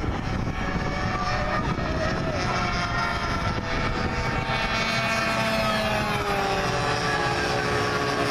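Several radio-controlled model warplanes flying, their engines making overlapping whining tones that slide slowly in pitch as they pass.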